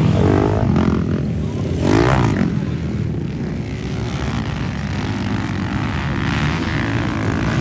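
Motocross bikes racing, their engines revving. One engine's pitch climbs sharply about two seconds in, then the engine noise settles into a steadier, lower mix.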